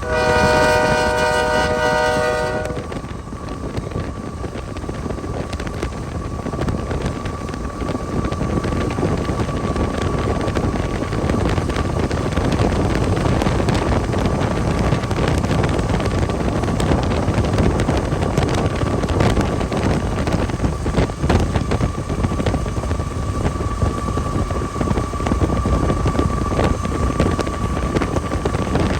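A train horn blast that cuts off about two and a half seconds in, followed by steady train and vehicle noise with wind buffeting the microphone.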